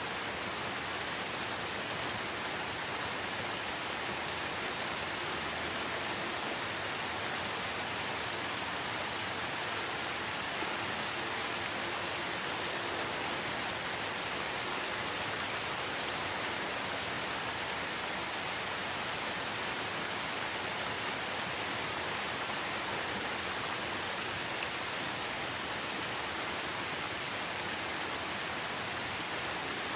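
Steady rainfall, an even hiss of many drops falling on surfaces, with no change or break.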